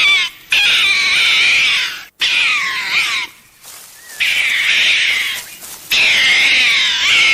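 An animal giving a series of loud, high, wavering cries, each lasting about a second or more and separated by short gaps.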